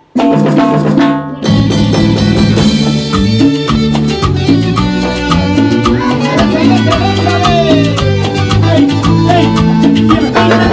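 Live Latin dance band starting its opening number: a short lead-in, then the full band comes in about a second and a half in, playing with a steady dance beat.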